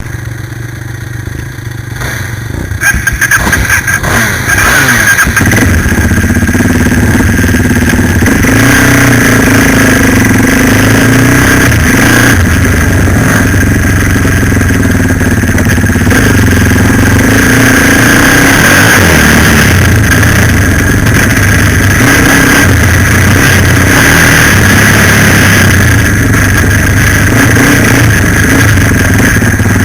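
Suzuki LTZ 400 quad bike's single-cylinder four-stroke engine, heard from a camera on its rear rack: quieter for the first few seconds, then revving up and pulling away about three to five seconds in, and running loud and steady under throttle after that.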